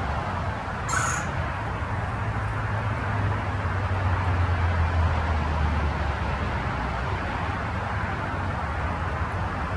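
Steady low rumble of distant road traffic, swelling for a few seconds in the middle, with one brief high chirp about a second in.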